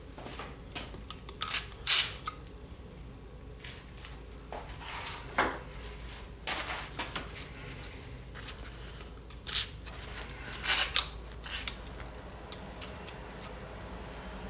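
Scattered metallic clinks and clanks of tools and engine parts being handled, loudest about two seconds in and again near eleven seconds.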